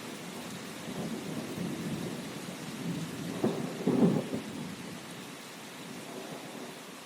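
Steady rain with a rumble of thunder that rolls in swells, strongest about four seconds in, then dies away to the rain alone.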